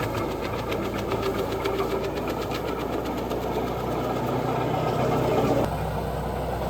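A wood chipper's gasoline engine running, with a rapid mechanical ticking rhythm over a steady rumble. The sound changes abruptly about six seconds in.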